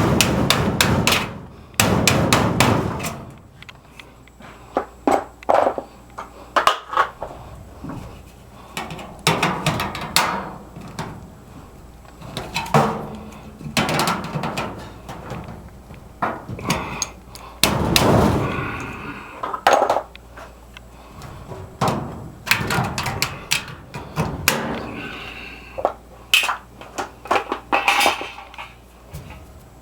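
Irregular knocks, taps and clatter of hand work, in uneven clusters, with a few brief scraping stretches.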